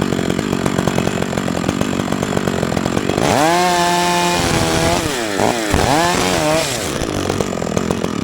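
Two-stroke chainsaw engine idling with a rapid even firing beat, then revved to full throttle about three seconds in; its pitch sags and recovers several times before it drops back to idle near the end.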